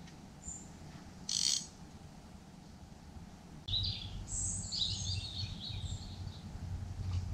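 Small birds chirping in a quick run of high notes for about two seconds past the middle, over a low rumble that starts at the same moment. A brief hissy rustle comes about a second in.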